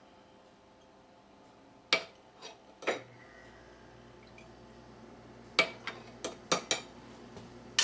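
A ladle clinking against a glass jar and bowl as the jar is topped off with sauerkraut juice: a few sharp clinks, then a quick run of five or six near the end.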